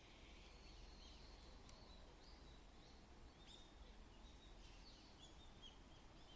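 Near silence with faint, quick chirps of small birds in the background, coming more often in the second half, and one faint click under two seconds in.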